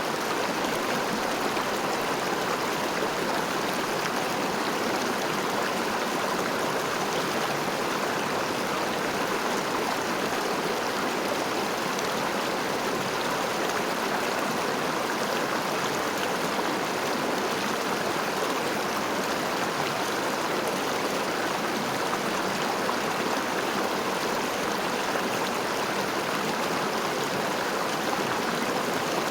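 A river flowing, a steady, even rushing of water with no breaks or changes.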